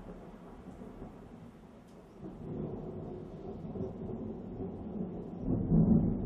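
Thunder rumbling from a nearby lightning strike: faint at first, building about two seconds in, and swelling to its loudest low peal near the end.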